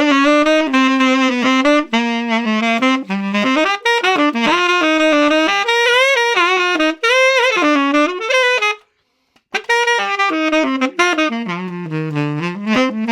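Unaccompanied tenor saxophone, a Conn 10M with a Boston Sax Shop Red Box reed (thin tip, medium heart) on a SYOS mouthpiece, playing a jazz phrase of quick runs and bent, sliding notes, recorded dry. The line breaks off once for a breath about nine seconds in, then goes on.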